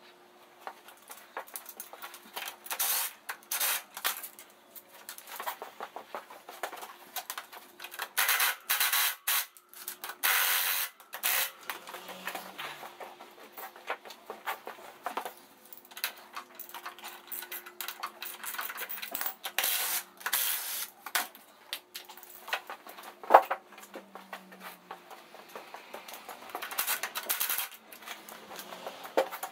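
Sped-up workshop clatter of tools and bolts as a motorcycle's front wheel and mudguard are taken off, with several short, louder bursts of a cordless impact driver.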